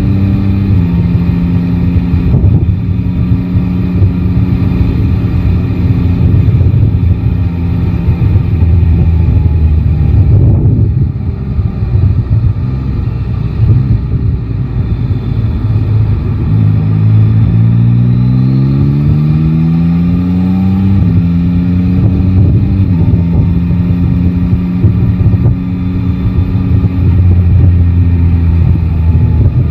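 Yamaha Tracer 9 GT's 890 cc inline-three engine running at steady road speed. Its note holds level, drops off briefly about a third of the way in, then rises for a few seconds past the middle as the bike accelerates and falls back with an upshift, over a low rush of wind and road noise.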